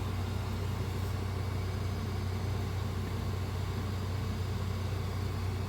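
Steady low hum from a 3D printer standing powered on, its fans and power supply running, with no print-head movement heard.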